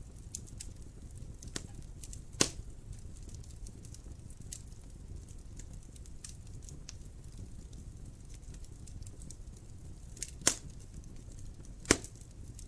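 Wood fire crackling in a fireplace: a low steady rumble of burning with scattered sharp pops and snaps, three louder ones about two seconds in and twice near the end.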